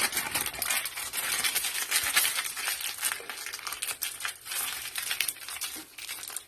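Continuous crinkling and crackling of something being crumpled and handled by hand.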